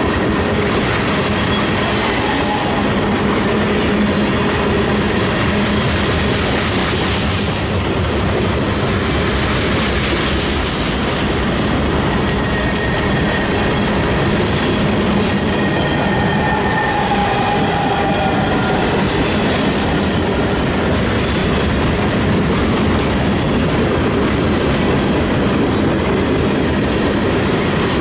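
CSX freight train rolling past steadily, its wheels clacking over the rails with a few faint wheel squeals.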